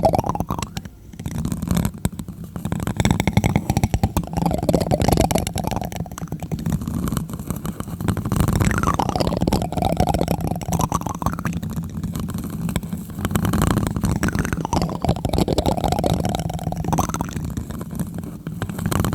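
Plastic spoon tapping and rubbing directly on a microphone: quick, continuous strokes with a heavy, boomy low end.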